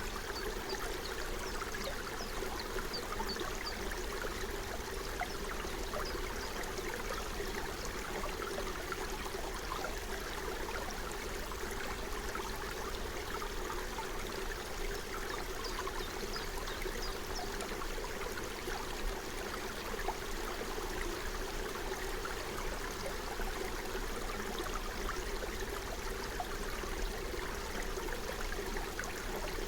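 Forest stream flowing: a steady babble of running water with many small trickles and splashes.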